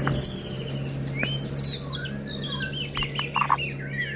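White-rumped shama singing: loud high whistles near the start and again about one and a half seconds in, then a quick run of short sliding whistles mixed with harsh rattling notes in the second half.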